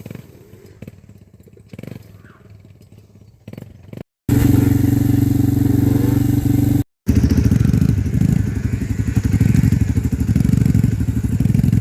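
Dirt bike engine running loud and close. It comes in two clips cut together, with abrupt breaks about four and seven seconds in, and the second clip has a fast, even pulse. Before that, a quieter stretch with scattered knocks.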